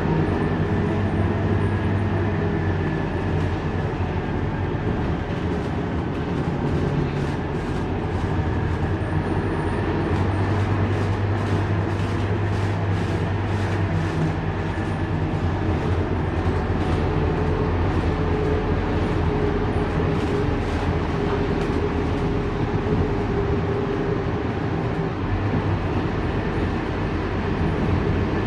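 Scania K230UB bus running, a steady engine drone with road noise, its low hum growing stronger and easing off at times.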